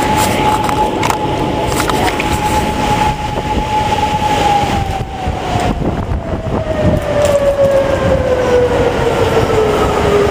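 A siren wails at one steady pitch, then winds slowly down in pitch from about four seconds in, the coast-down of a mechanical siren. A steady rushing noise runs underneath.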